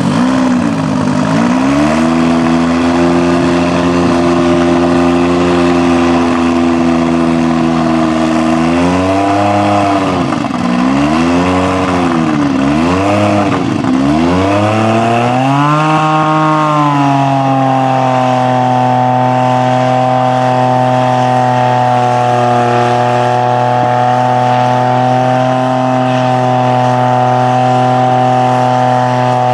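The Honda RA166E 1.5-litre twin-turbo V6 of the Williams Honda FW11 Formula One car, just fired up and running at a steady idle. About nine seconds in it is blipped four times, rising and falling, then its speed climbs and holds at a higher steady fast idle.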